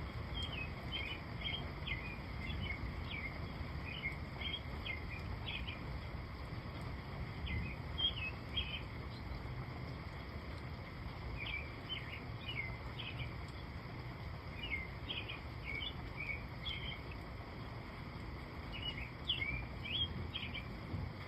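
Birds chirping in short clusters of quick, high notes that recur every few seconds, over a steady low background rumble of outdoor noise.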